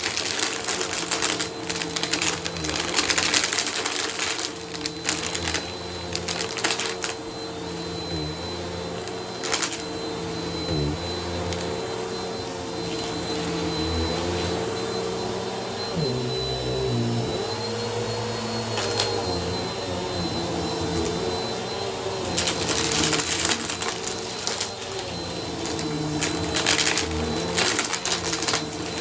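Bissell vacuum cleaner running on a shag rug: a steady motor hum with a faint high whine, and short crackling bursts scattered through it as it is pushed over the pile. The motor note wavers briefly about halfway through.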